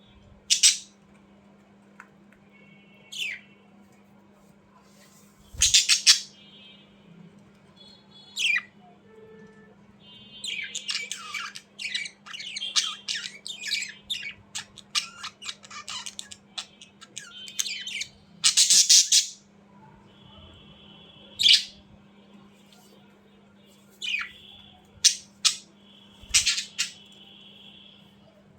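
Budgerigars squawking and chattering: sharp single squawks scattered through, a busy stretch of chatter in the middle, and several buzzy held notes near the end.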